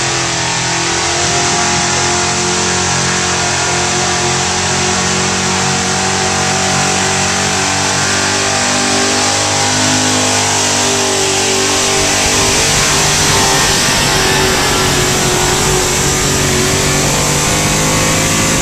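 A 1979 Ford pickup's engine held at full throttle, running at high revs and steady pitch while it drags a weight sled down a truck-pull track.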